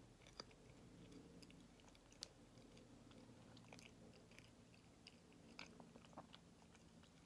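Faint chewing of a soft Kamome no Tamago sweet (sponge cake over white bean paste): quiet, scattered mouth clicks and smacks, one sharper click about two seconds in.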